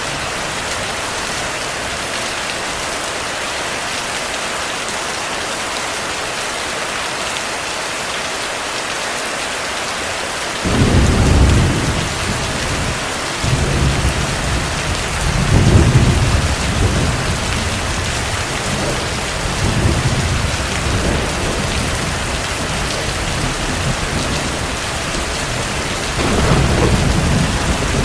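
Heavy rain hissing steadily. About ten seconds in, low thunder comes in abruptly and rolls on in several swells, loudest around the middle and again near the end.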